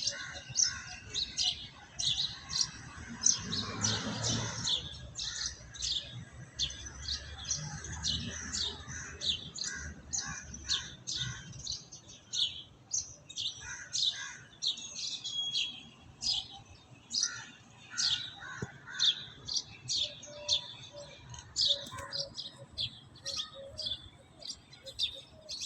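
Small birds chirping continuously: short, high chirps, a few a second.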